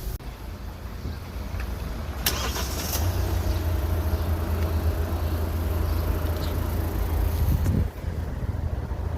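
Car engine running with a steady low rumble, heard from inside the cabin, with two sharp clicks about two and three seconds in.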